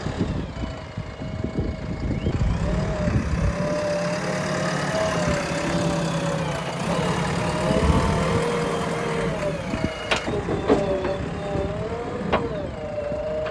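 Engine of a JCB backhoe loader running under changing load, with a wavering whine that rises and falls. There are a few sharp clanks in the last few seconds.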